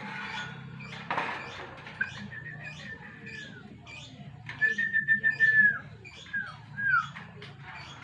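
Bird chirping in a quick, steady series about three times a second, with two long clear whistled notes that each end in a downward slide, and two short falling whistles near the end.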